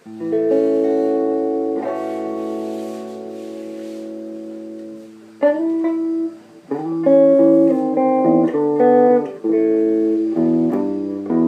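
Electric guitar played through a homemade Ruby amplifier, a small LM386-based guitar amp. A chord is struck and left to ring for about five seconds, then a run of single notes and short licks follows.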